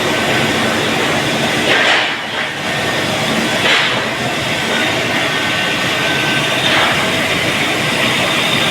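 Steady, loud din of steel pipe mill machinery, with a few faint steady tones in it and three brief louder swells, about two, four and seven seconds in.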